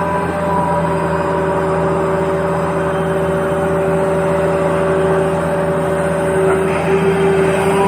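Radio-controlled toy construction vehicle running, its small motors making a steady whine with an even mechanical hum.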